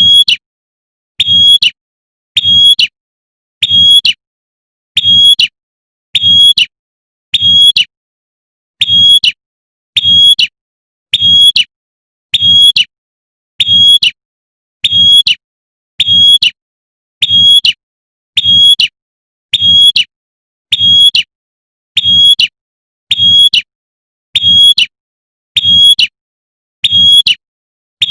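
Female prenjak (a prinia) giving its sharp, short 'tembakan' call over and over, one identical call about every 1.3 seconds, as a repeated lure call to draw in males.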